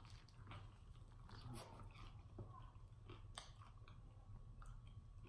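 Faint close-up chewing and biting on crispy fried chicken wings, with scattered small crunches and wet mouth clicks.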